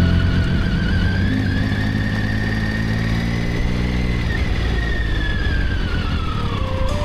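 Triumph Tiger 800 motorcycle's three-cylinder engine running at road speed while riding. Its pitch rises slowly and then falls away in the last couple of seconds.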